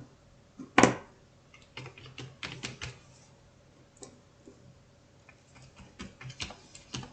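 Small clicks and taps of a paintbrush and gouache paint jars being handled: one sharp click about a second in, then scattered light taps and knocks.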